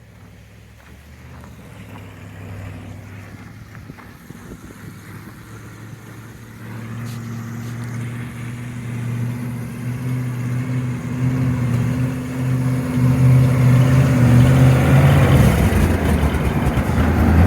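Mini Chevy S10 monster truck's engine running, growing steadily louder as it comes closer, with a steady low engine note and louder, rougher running near the end.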